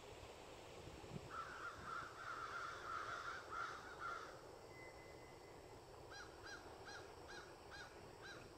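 A bird calling faintly: a quick run of harsh notes from about one to four seconds in, then seven short calls in an even series, about three a second, near the end.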